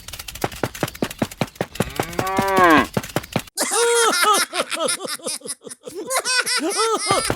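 Cow mooing sound effects: one long call rising and falling in pitch, then a string of shorter pitched calls, after a run of fast clicks at the start.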